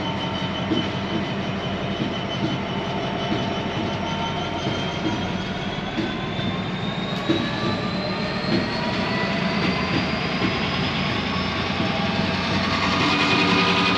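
A train running past on the rails, with irregular knocks from the wheels and steady whining tones that slowly rise in pitch.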